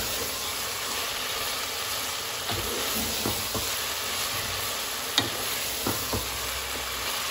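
Minced meat (keema) sizzling as it is fried in its spiced oil in a non-stick pot, with a wooden spoon stirring and scraping through it. A few knocks of the spoon against the pan, the sharpest about five seconds in.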